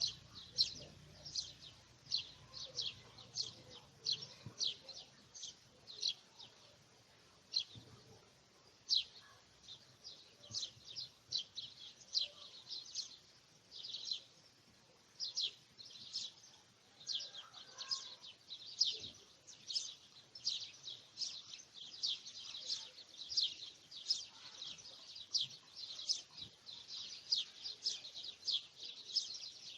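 A bird chirping: short, high chirps repeated about twice a second, without a break.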